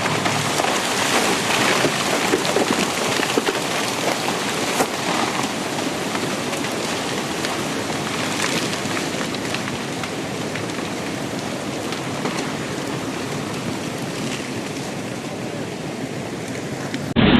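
Heavy rushing water in a downpour: a dense, steady hiss with scattered sharper spatters, cutting off abruptly near the end.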